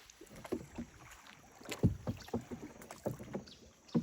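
Canoe paddle strokes: the paddle dipping and splashing in the water in an uneven rhythm, about five strokes, the loudest about two seconds in and near the end.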